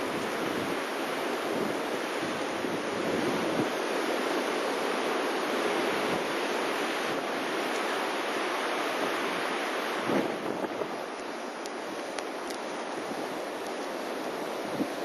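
Strong blizzard wind blowing across the microphone, a steady rushing noise. A short knock comes about ten seconds in, after which the wind eases a little.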